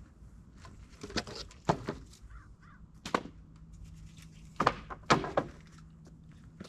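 A series of sharp knocks and thuds, about seven in all, coming in three clusters, with a low steady hum starting about three seconds in.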